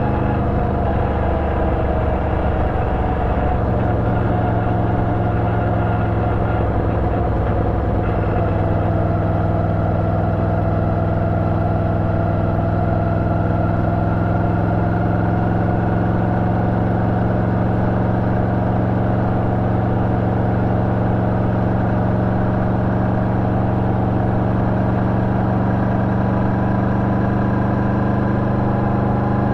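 Yamaha VMAX 1700's V4 engine running at steady revs through an Akrapovic exhaust with a dB-killer. Its pitch sags slightly and rises again near the end.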